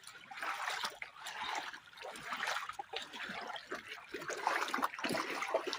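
Floodwater trickling and splashing, an uneven running-water sound.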